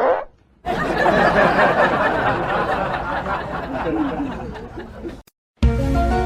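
Several voices laughing and chattering over one another, cut off abruptly about five seconds in; after a short gap, music with held notes begins.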